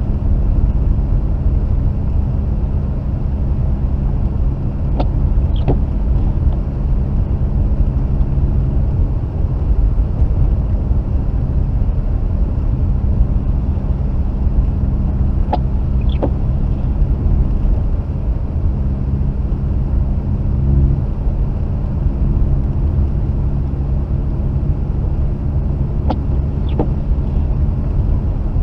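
Mazda RX-8 rotary-engined car driving steadily, heard from inside the cabin as a constant low rumble of engine and road noise. About every ten seconds a pair of short clicks sounds, three times in all.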